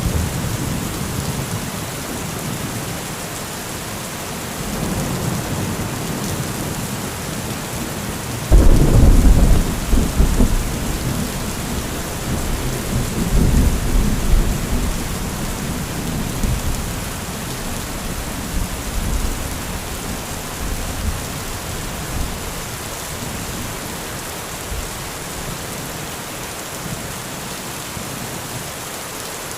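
Steady heavy rain with thunder. A sudden loud thunderclap comes about a third of the way in, followed by rolling rumbles that die away.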